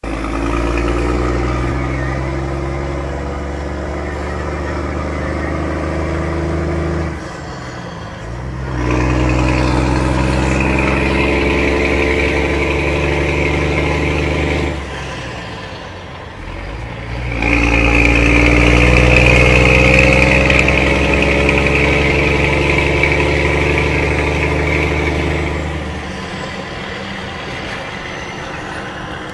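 Scania truck's diesel engine with a straight-through exhaust, a deep loud rumble. It runs hard in three long spells, each dropping back to a lower, quieter run, and settles into a steadier lower run near the end.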